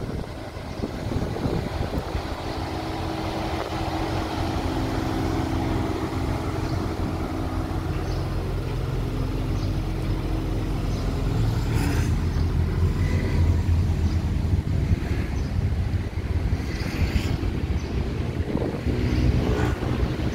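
A vehicle engine running steadily with a low rumble, plus a few sharp clicks or knocks in the second half.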